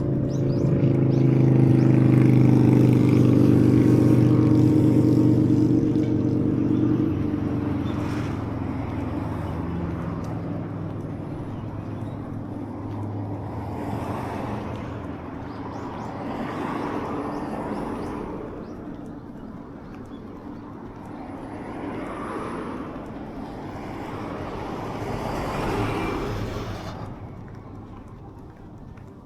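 Road traffic passing: a vehicle's engine drones loudly close by for the first several seconds, then fades away. After that, several more vehicles go by one after another, each swelling and fading.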